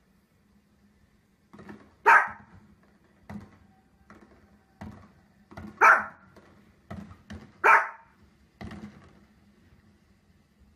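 Small long-haired dog barking sharply three times, at fireworks on the television. Fainter short pops and knocks fall between the barks.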